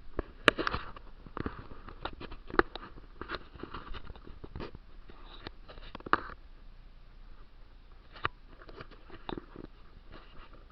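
Footsteps crunching on a dirt trail: irregular clicks and crunches, the sharpest about half a second and two and a half seconds in, thinning out after about six seconds.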